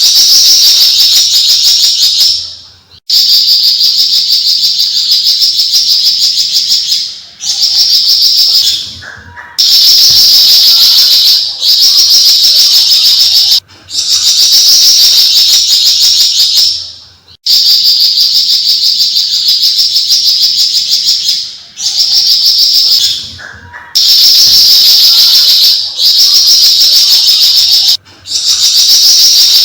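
Javan fulvetta (flamboyan, Alcippe pyrrhoptera) singing loudly in long phrases of rapid, buzzy chatter, each two to four seconds long, repeated with brief pauses between.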